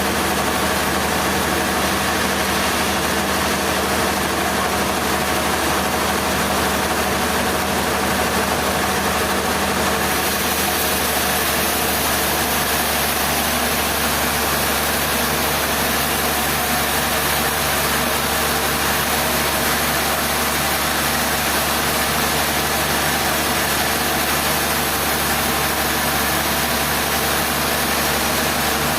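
Engine running steadily at idle, a constant hum that does not change in speed or load.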